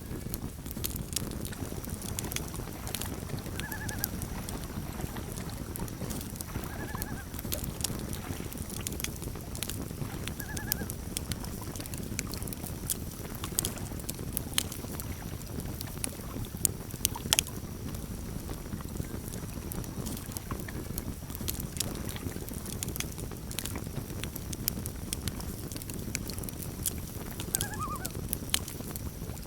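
Campfire burning with a steady low rumble and scattered sharp crackles and pops. Three short wavering calls come a few seconds apart early on, with another near the end, fitting common loon tremolo calls carrying over water.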